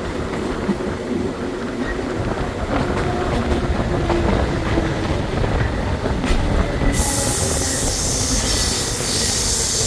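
Série 900 electric metro train running on the track with a steady rumble and some faint steady tones; about seven seconds in, a high-pitched hiss comes in and continues.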